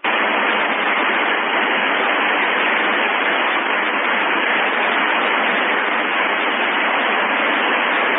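Two-way FM radio receiver hissing with loud, steady static, cutting in suddenly at the start: the squelch open on a noisy repeater signal carrying no voice. The uploader puts the poor audio down to the repeater's failing exciter.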